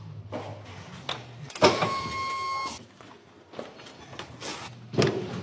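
A small electric motor whining steadily for about a second, with a few clicks and knocks of metal around it.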